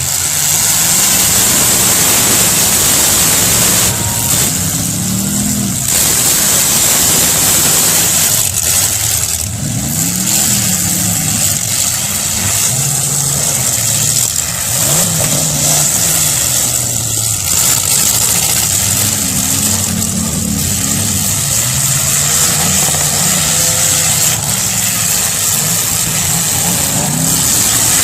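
Demolition derby cars' engines running and revving, several at once, their pitch rising and falling over and over.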